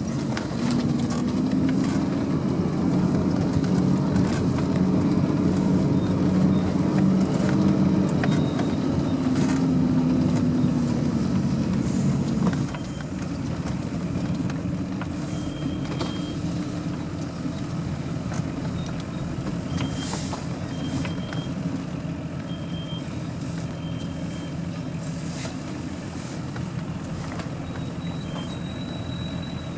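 Off-road vehicle engine running steadily under load, dropping to a quieter, lower drone about twelve seconds in, with faint short high chirps now and then.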